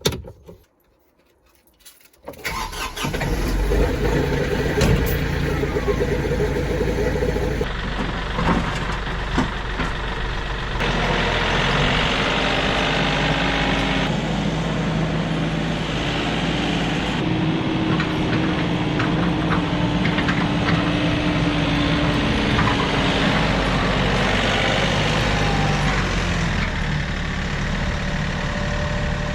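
Tractor engine starting about two seconds in, then running, its pitch rising and falling in places.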